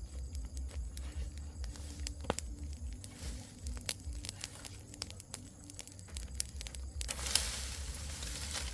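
Rustling and crackling of material being handled, with scattered sharp clicks and a louder rustle lasting about two seconds near the end.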